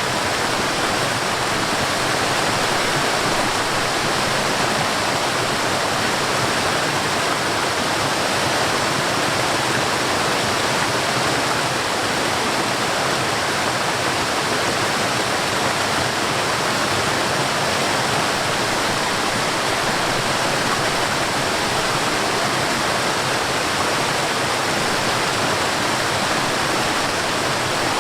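Mountain stream and waterfall rushing: a steady, unbroken wash of falling and flowing water.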